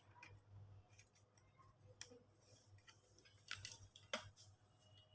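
Near silence with a few faint clicks and taps from handling the embroidery machine's parts and covers.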